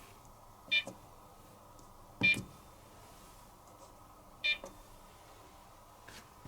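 Control panel of an Electrolux Wascator W355H commercial washing machine beeping three times, short key-press beeps about a second and a half to two seconds apart.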